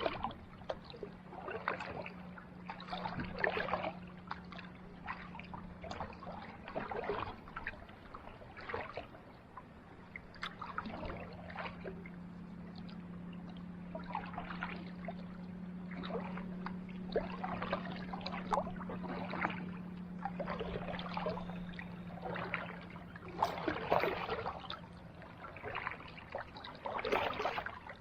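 Kayak paddle dipping into calm sea water, a splash and trickle with each stroke every second or two. A steady low hum runs underneath, strongest in the middle.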